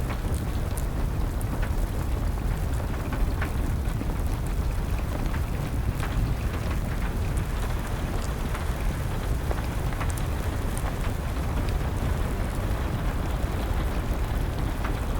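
Steady, dense rain noise with scattered sharp crackles and pops from a burning wood fire.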